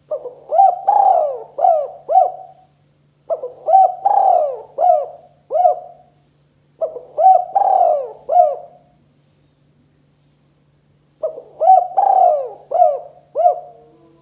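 Spotted dove (tekukur) cooing: four repeated phrases of about five rolling coos each, with a pause of a second or so between phrases and a longer pause before the last.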